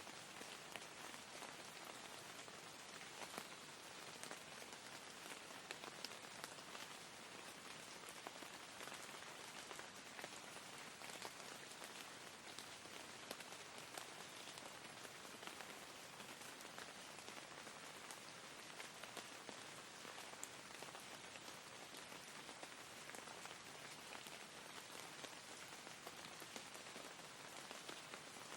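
Faint, steady rain falling: an even hiss with scattered light drop ticks.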